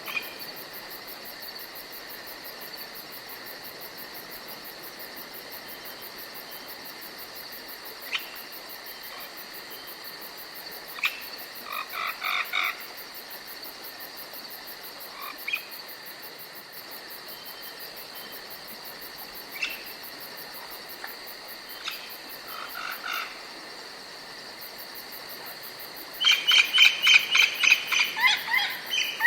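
Forest ambience of steady insect trilling, with short bursts of chirping calls a few times and a fast run of repeated calls near the end.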